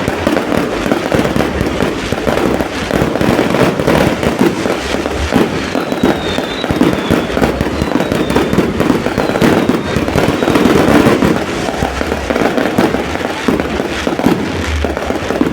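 Many fireworks going off at once: a dense, continuous crackle of overlapping bangs and pops, with a few short falling whistles over it.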